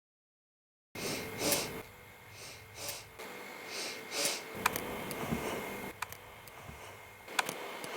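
Airbus A320neo cabin ambience: a steady faint hum from the cabin air system, with a few soft breathy rustles and several sharp clicks.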